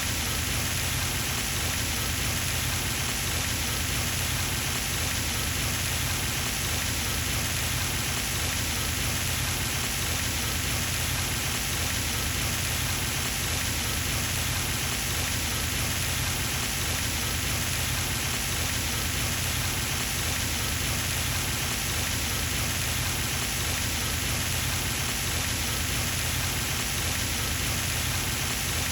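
Pond fountain: water steadily splashing and pattering back into the pond, with a steady low hum beneath it.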